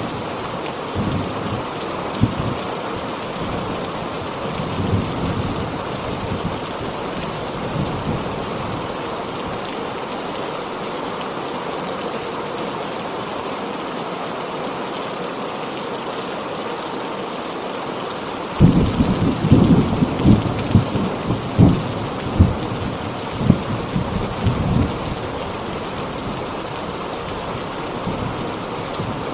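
Heavy rain falling in a steady hiss, with thunder rumbling; about two-thirds of the way through a sudden, crackling clap of thunder rolls on for several seconds before fading back into the rain.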